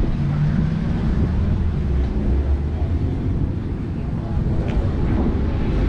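A car engine running at low revs, with people talking in the background.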